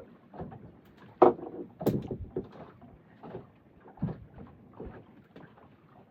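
Irregular knocks and bumps on a small fishing boat, the loudest being two sharp hits close together between one and two seconds in.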